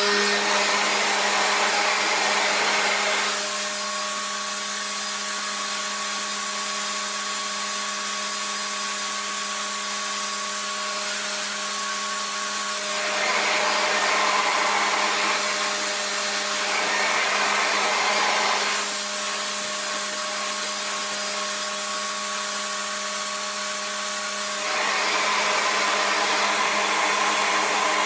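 RevAir reverse hair dryer running continuously as it sucks hair into its tube to dry it. The airflow goes back and forth between a louder, hissier rush and a quieter steady hum with a clearer whine, switching several times.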